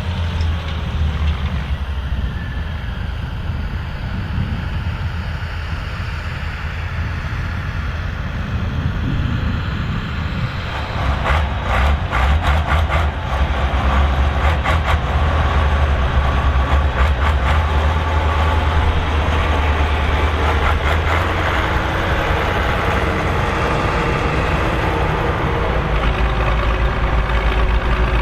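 Massey Ferguson 2680 tractor's diesel engine running steadily under load while working a field cultivator. It grows louder about ten seconds in, with a few seconds of rattling clicks.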